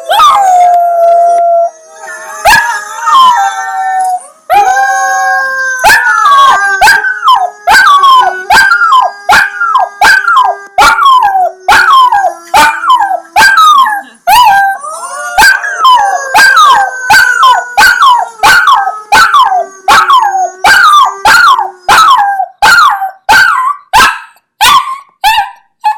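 Dog howling: a few long drawn-out howls, then a rapid run of short falling howls, roughly one a second, with a lower steady howl held underneath for several seconds at a time.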